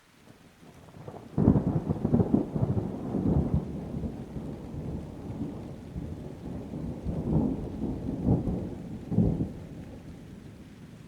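A thunderclap with rain: a loud crackling crash about a second and a half in, then the thunder rolls on in several swells and slowly dies away.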